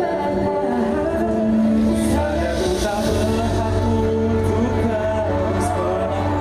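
Live pop music from a concert: a band playing, with singing over it.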